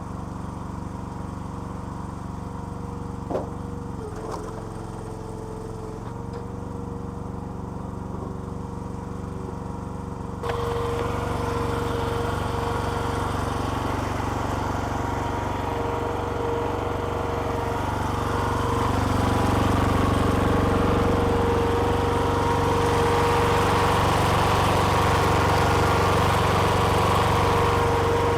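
Small petrol engine of a homemade hydraulic log splitter running steadily. About ten seconds in the sound jumps abruptly louder and noisier, and it grows louder again about two-thirds of the way through.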